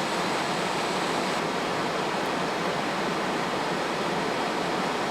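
Steady rushing roar of freeway traffic, even and unbroken, cutting in and out abruptly.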